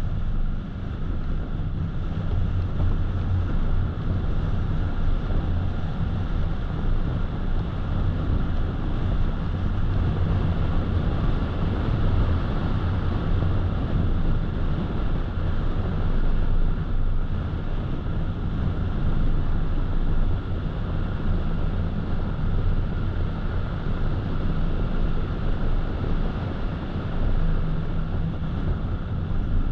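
Steady road noise of a car driving at speed, heard from inside: a constant low rumble of tyres and engine with a haze of wind.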